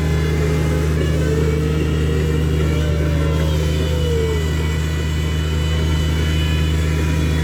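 Steady low rumble of a train in motion, with a few faint higher tones sliding slowly in pitch.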